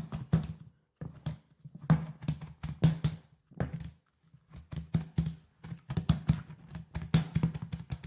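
Chicken pieces tumbling and thudding inside a lidded container as it is shaken and flipped over to coat them in seasoned flour, in clusters of knocks and rattles about once a second.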